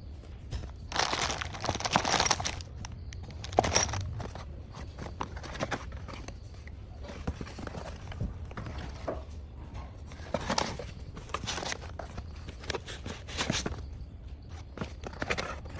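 Packaging and parts being handled during an unboxing: irregular knocks and clicks with a few rustling bursts, the largest about a second in.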